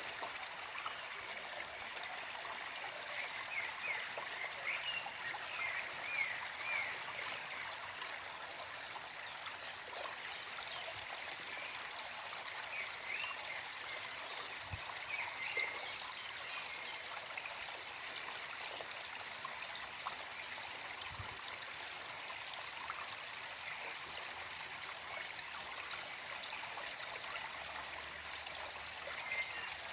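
Small forest stream flowing and trickling steadily, with birds chirping in the background. Clusters of quick chirps come about three to seven seconds in, again around twelve to sixteen seconds, and near the end.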